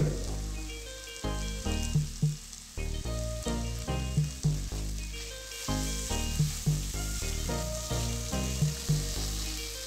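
Prawns, onions and tomatoes sizzling as they fry in a pan and are stirred, with gentle instrumental background music of steady, stepping notes throughout. The sizzle gets stronger from about halfway.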